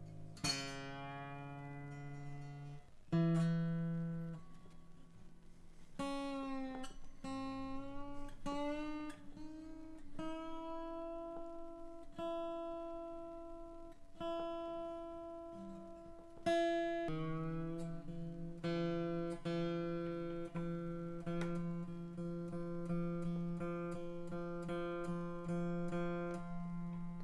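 Seagull S12 Coastline 12-string acoustic guitar with new strings being plucked repeatedly while its tuning pegs are turned, some notes gliding up in pitch as the strings are brought up to tune.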